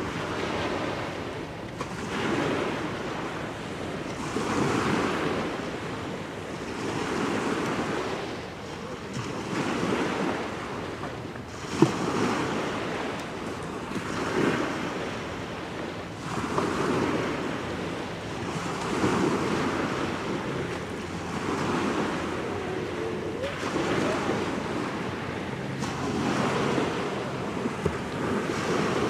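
Small waves washing onto the shore in regular surges every two to three seconds, with wind buffeting the microphone. A single sharp click about twelve seconds in.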